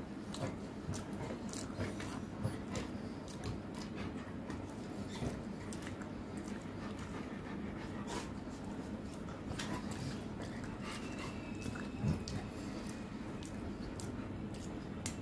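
Close-up eating sounds from a person chewing rice and chicken curry: wet chewing with many short lip smacks and mouth clicks.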